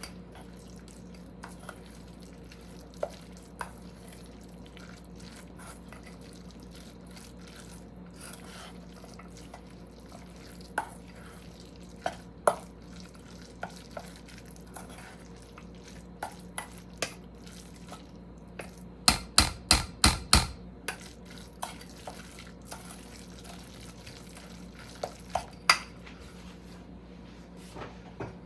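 Utensil clicking and knocking against a bowl while meat filling is stirred and mixed. The clicks are scattered, with a quick run of about six loud knocks about two-thirds of the way through, over a steady low hum.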